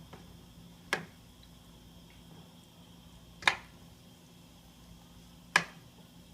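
Three sharp taps of a cooking utensil against a pot, two to two and a half seconds apart, over a low steady hum.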